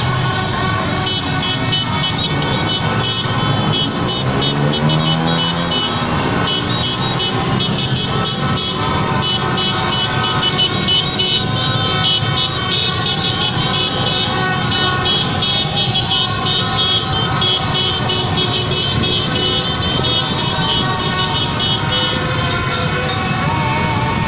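Dense street traffic of a celebrating motorbike parade: engines running, with vehicle horns honking over and over and voices shouting in the crowd.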